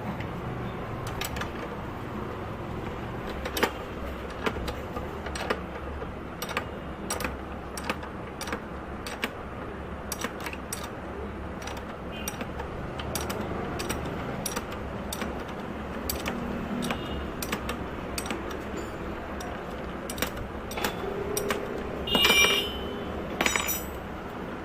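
Steel hand tools, a spanner and socket on the bolt and nut of a makeshift bush puller, clicking and clinking irregularly, about one or two clicks a second, as the puller is worked on a Hero Pleasure scooter's engine mount bush. A short squeaky metallic ringing comes near the end.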